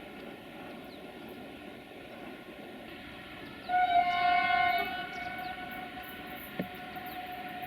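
A train horn sounding one blast of about a second, followed by a fainter held tone over the steady running noise of a train at the station, with a short knock near the end.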